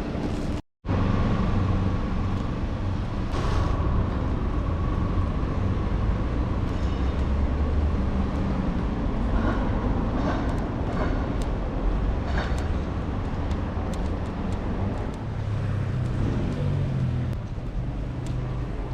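Street traffic noise: a steady rumble of road vehicles going by. The sound cuts out completely for a moment just under a second in.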